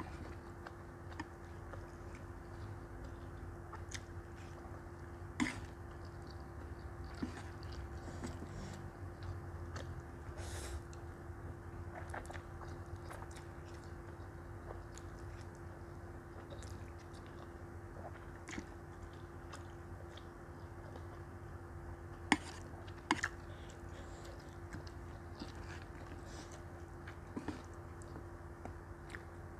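Close-miked chewing and wet mouth sounds of someone eating soft instant noodles and steamed chicken dumplings, with scattered small clicks and a few sharper clicks, over a faint steady hum.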